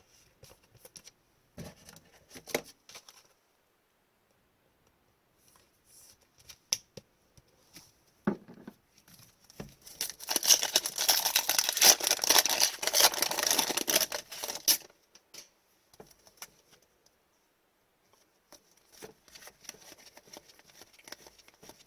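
A foil trading-card pack being opened, its wrapper crinkling loudly for about five seconds in the middle. Light ticks and rustles of card and wrapper handling come before and after it.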